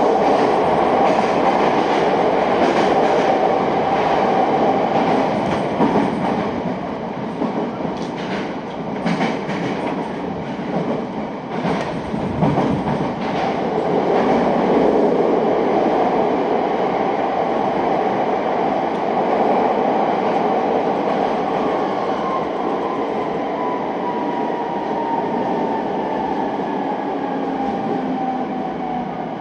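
Electric local train running through a tunnel, heard from inside the car: a dense, steady rumble of wheels and running gear, with a few clicks of the wheels over rail joints in the middle. In the second half a thin whine falls slowly in pitch as the train slows for the underground platform.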